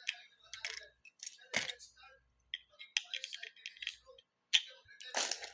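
Plastic Lego bricks clicking and rattling as they are handled and pressed together: a run of irregular sharp clicks, the loudest cluster near the end.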